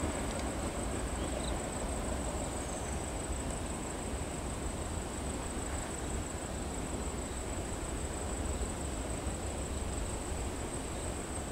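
Low, steady rumble of a departing passenger train as its last coach draws away into a tunnel; the wheel noise fades over the first second or so. Under it runs a steady high-pitched insect drone.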